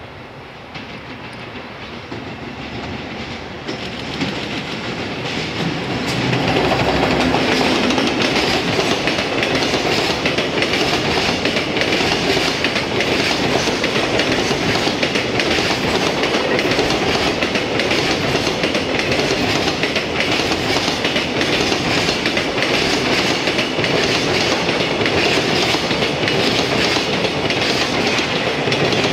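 Container freight train hauled by an EF210 electric locomotive, coming closer and then passing close by. The sound builds over the first six seconds or so, then holds as a steady loud rattle of wagon wheels clattering along the rails.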